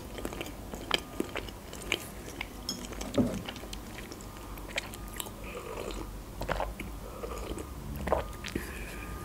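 Close-up chewing of a Kinder Delice chocolate sponge cake: many small wet mouth clicks and smacks, with a few louder swallows. In the second half she sips from a mug between bites.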